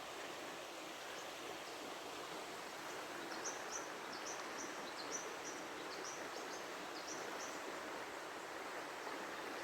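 Rainforest river flowing steadily, a continuous rushing of water. From about three seconds in, a bird calls a quick series of short, high, falling chirps, about ten of them over four seconds.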